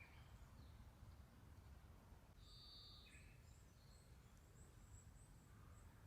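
Near silence: faint bird calls, a short run of high chirps in the middle, over low, steady background noise.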